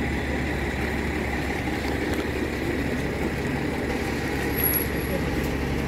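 City bus engine running steadily, a low rumble and hum with a brief high-pitched tone near the end.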